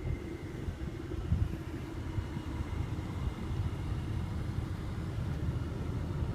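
Steady low rumble of a vehicle heard inside a car cabin, with one soft knock about a second and a half in.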